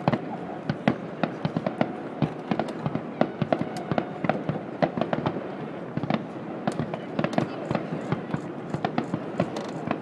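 Aerial fireworks going off in a rapid, irregular barrage: sharp bangs and cracks several times a second over a continuous crackling rumble.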